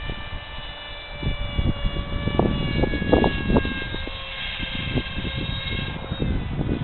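Electric brushless motor and 6x5 propeller of an AXN foam RC plane whining in flight, the pitch shifting slightly as it passes, with gusts of wind buffeting the microphone.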